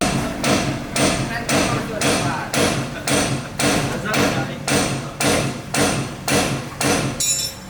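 Steady hammering, about two blows a second and about fifteen in all, ending with a brief higher ringing near the end.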